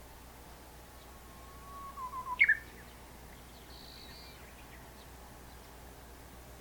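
Japanese bush warbler singing its hoo-hokekyo song once: a long held whistle that breaks into a quick, louder rising flourish at the end.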